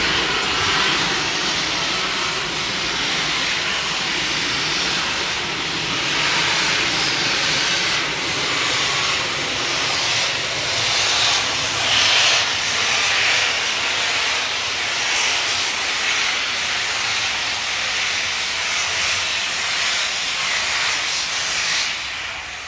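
Steam locomotive venting steam: a loud, steady hiss that swells slightly now and then and dies away near the end.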